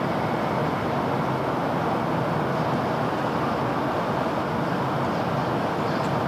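Steady city road traffic: a continuous rush of passing vehicles, even in level, with no single event standing out.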